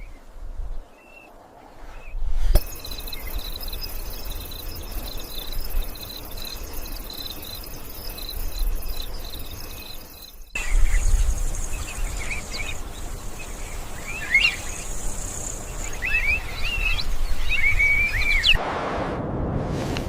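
Nature ambience: insects trilling in a steady, pulsing high chorus, then birds chirping in short rising and falling calls over a high insect buzz. Near the end a lower rushing noise takes over.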